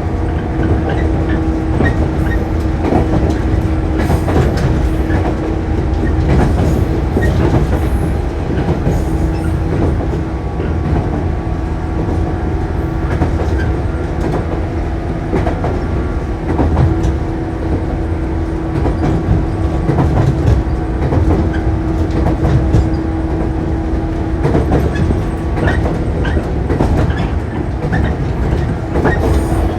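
Shinano Railway 115-series electric train running at speed. A heavy low rumble from the wheels and bogies carries a steady tone that drops out briefly a few times, with scattered clicks from the wheels crossing rail joints.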